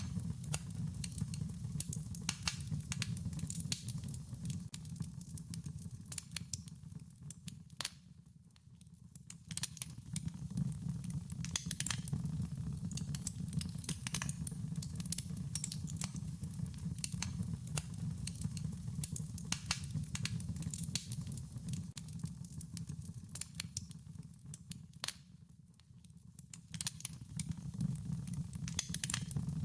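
Wood fire crackling: irregular sharp pops and snaps over a low, steady rumble. The whole sound thins out briefly twice, about eight seconds in and again near the end.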